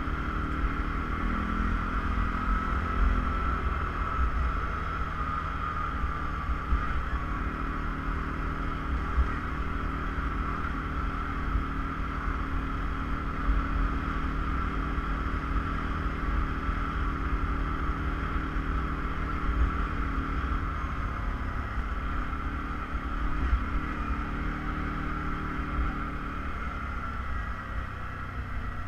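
ATV engine running steadily under way, its pitch shifting a little now and then, with wind rumbling on the microphone.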